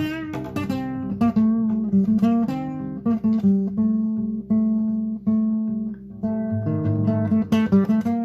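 Acoustic guitar playing, with quickly plucked notes and strummed chords, and a few longer notes left to ring out around the middle.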